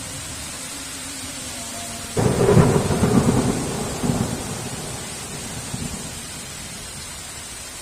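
Thunderclap over steady heavy rain: a sudden loud crack about two seconds in, with a second surge a moment later, then rumbling away over a few seconds.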